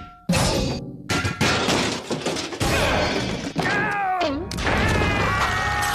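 Cartoon slapstick sound effects: a run of crashes and thuds, followed by a wavering tone that slides down and back up.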